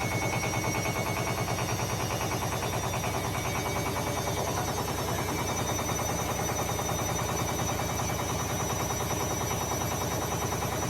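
Beko washing machine spinning with an unbalanced load, the drum knocking in a rapid, even rhythm as the machine shakes. Very loud.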